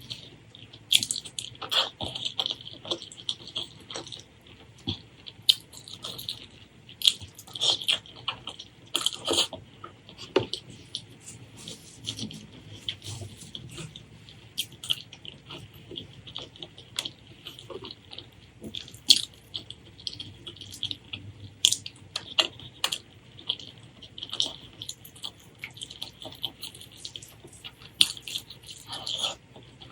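Close-miked eating: a run of irregular wet smacks, clicks and squelches of chewing and mouthing soft food.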